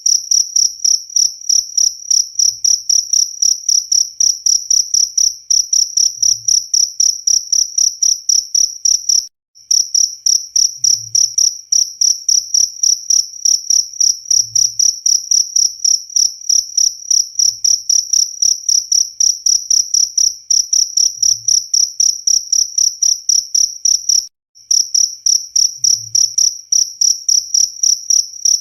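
Cricket chirping loudly and continuously: a shrill, high-pitched chirp repeated several times a second in an even rhythm, breaking off briefly twice.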